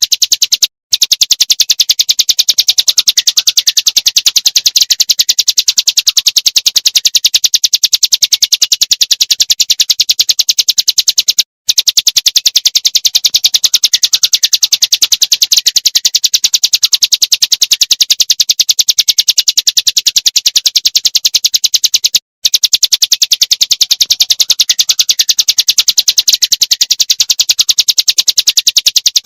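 Looped recording of small songbirds' rapid-fire, high-pitched trilling ('tembakan'), a dense unbroken stream of quickly repeated notes. It stops for a split second and restarts about every 11 seconds, where the loop repeats.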